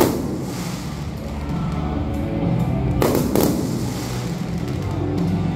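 Aerial fireworks shells bursting, with a sharp bang at the start and another about three seconds in, over music playing steadily.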